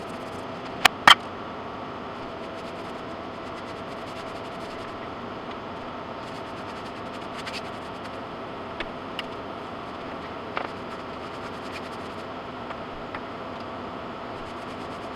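Steady hum and hiss like a small motor or fan running, with two sharp clicks about a second in and a few faint ticks later.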